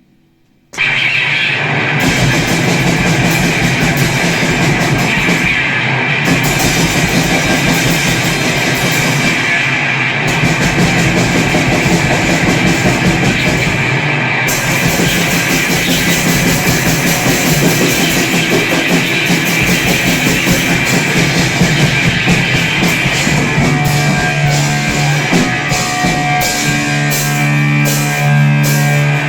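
Grindcore band, distorted electric guitar and drum kit, crashing in suddenly about a second in and playing loud and dense. Near the end the guitar settles into held low chords.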